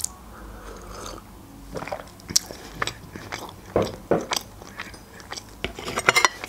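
Close-miked mouth sounds of eating: a sip from a mug, then wet chewing and lip smacks, with a quick run of smacks near the end.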